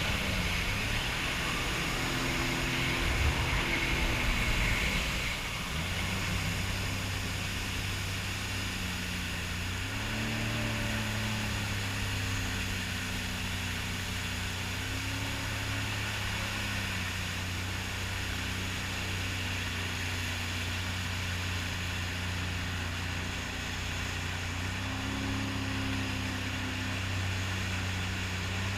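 Sea-Doo personal watercraft engine running at a steady cruise, a low drone that rises and dips slightly in pitch with the throttle a few times. A hiss of wind and spray is stronger for the first few seconds, then eases.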